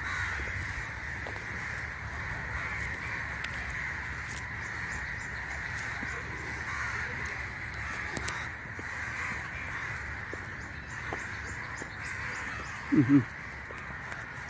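Crows cawing over a steady high-pitched background chorus, with two short, loud, low-pitched calls near the end.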